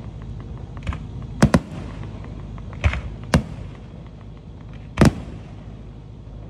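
Aerial display-shell fireworks bursting: about six sharp bangs, two in quick succession about a second and a half in and a loud one about five seconds in, over a steady low rumble.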